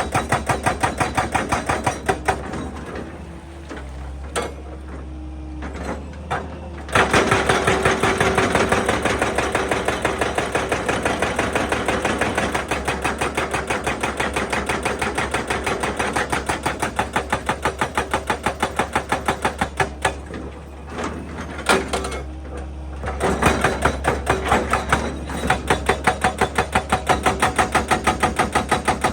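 Excavator-mounted hydraulic rock breaker hammering rock in a fast, even run of blows several times a second, over the excavator's steady engine. It stops twice for a few seconds while only the engine runs, then resumes.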